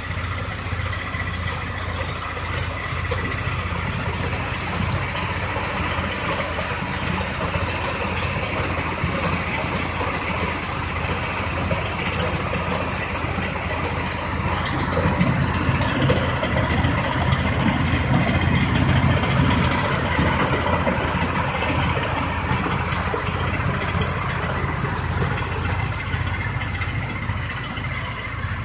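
Tractor engine running steadily while driving a mini rice mill (paddy huller), with a faint steady whine from the machinery over the low engine rumble. The sound grows louder for several seconds around the middle, then settles back.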